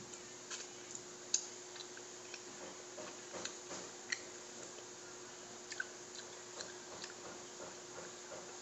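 Quiet, wet mouth sounds of eating a rambutan: soft chewing and sucking on the fruit, with scattered small clicks and smacks at irregular intervals over a faint steady hum.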